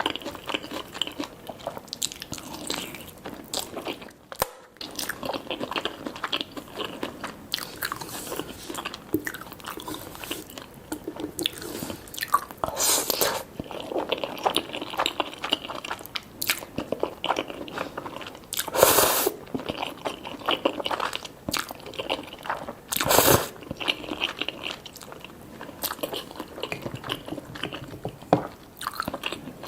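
Close-miked eating: biting into and chewing crunchy honey yangnyeom fried chicken, a dense run of small crackles broken by a few louder crunches.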